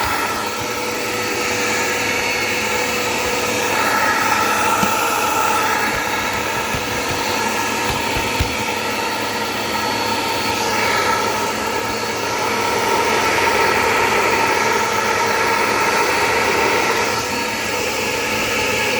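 Dirt Devil Power Max vacuum cleaner running steadily: a loud motor whir with a steady whine, swelling and easing slightly as it is worked over the floor.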